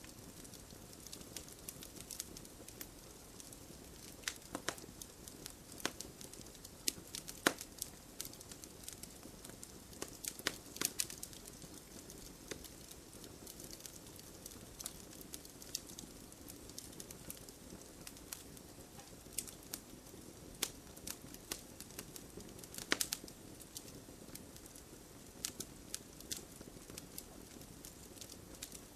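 Wood campfire burning, with irregular sharp crackles and pops over a low steady rush of flame.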